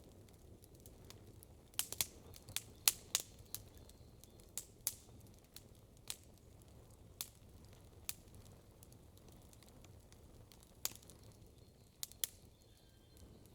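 Wood campfire crackling, with irregular sharp pops and snaps, a quick cluster of them about two seconds in and single pops scattered after, over a faint low rumble.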